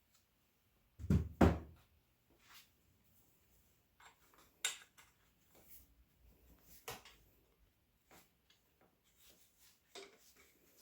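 Two heavy knocks about a second in, then scattered light clicks and taps, the sounds of parts and tools being handled at a workbench.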